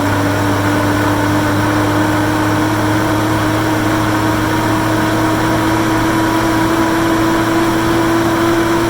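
1972 Toyota Land Cruiser FJ55 driving down the road, heard from a phone mounted on its front winch: a loud, steady drone of engine and road noise with a whine that rises slowly in pitch.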